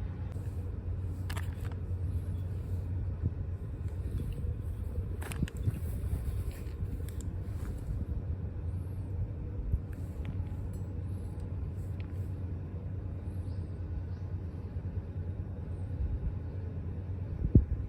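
Steady low rumble, with a few light clicks and knocks from small scooter variator parts being handled, the loudest near the end.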